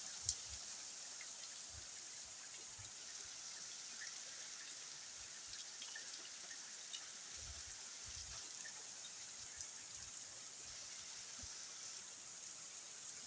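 Steady rain falling and pattering on a car, with scattered single drops tapping and one sharp tap just after the start.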